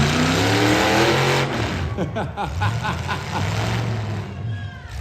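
Demolition derby car engine revving hard, its pitch climbing over the first second and a half, then revving up and down again.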